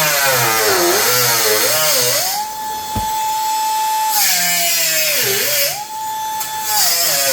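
A cut-off wheel tool running at full speed, its whine dipping in pitch several times and recovering as it is pressed into the sheet metal to open up the gap between the hood and the patch panel.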